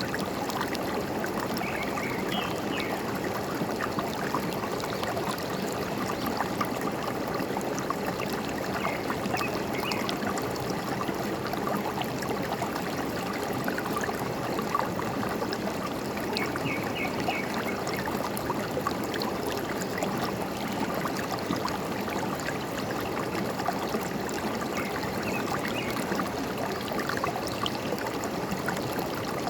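Forest stream running steadily with a continuous trickling, gurgling wash of water. Small birds chirp briefly in a few short clusters, about four times.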